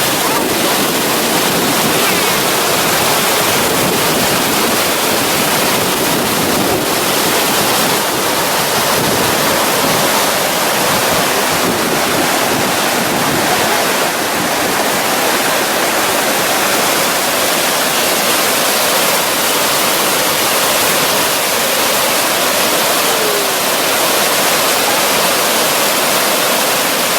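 Owenglin River waterfall: a steady, unbroken rush of falling water.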